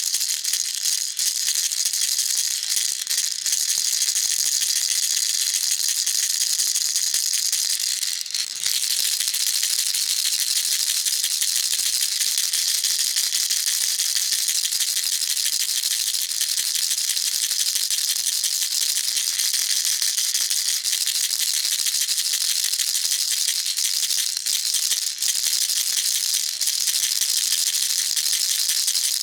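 Baby rattle shaken continuously, a fast, steady, high rattling of small loose pieces, with a brief break about eight seconds in.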